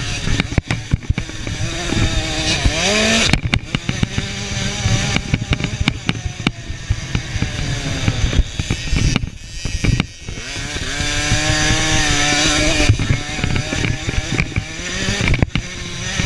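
Small 50 cc two-stroke motocross bike engines running at high revs, their pitch rising and falling as the bikes accelerate and back off. A sharp rise comes about three seconds in, and more than one engine is heard at once.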